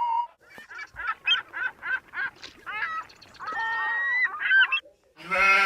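A run of short honking calls like a goose, a few a second, with one longer held call in the middle, played as a sound effect. A steady buzzing tone starts near the end.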